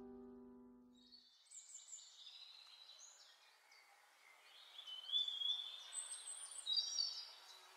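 The last held note of a guitar song dies away in the first second or so. Then small birds chirp and twitter, with high, quick calls that grow busier and louder in the second half.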